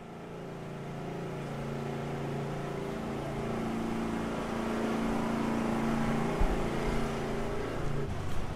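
A motor vehicle's engine running with a steady hum, growing louder over the first few seconds, along with street noise.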